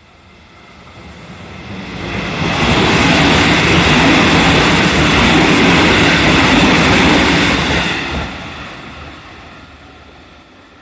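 JR 313 series electric multiple unit passing over a level crossing: the wheel and running noise swells up over about two seconds, stays loud and steady for about five seconds, then fades away as the train recedes.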